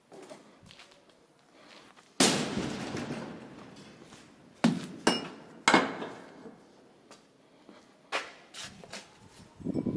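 Heavy metal clangs from steel rods being loaded onto a truck. One loud crash rings on for a couple of seconds, then three sharp clangs come in quick succession and lighter knocks follow near the end.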